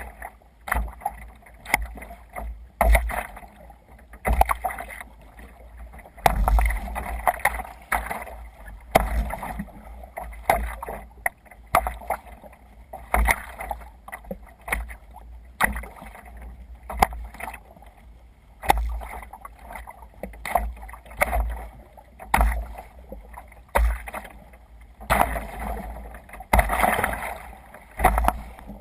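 Sea kayak moving through waves: water splashing and sloshing against the hull in repeated surges about every second or so, each with a low thump.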